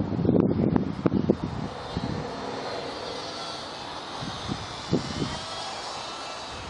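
Electric motor and propeller of a WLToys F949 RC Cessna-182 plane running in flight, a faint shifting whine over a steady whir. Wind buffets the microphone during the first second or so.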